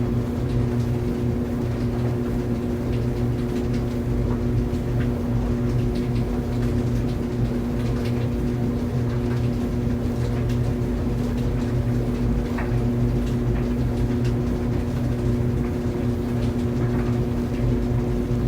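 Laundry dryer running with a steady, even hum, with faint, irregular light ticks over it.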